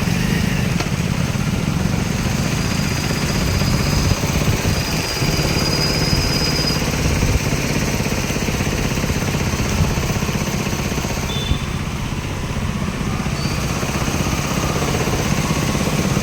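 Steady road traffic noise with motorcycle engines running, heaviest in the low rumble, and a faint thin high tone for a few seconds near the start.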